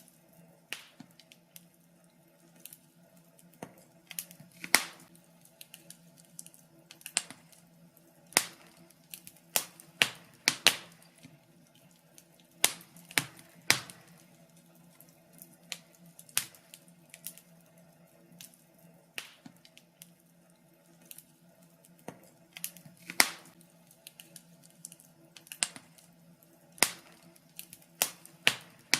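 Wood fire crackling: irregular sharp pops and snaps at an uneven pace, a few much louder than the rest, over a faint steady hum.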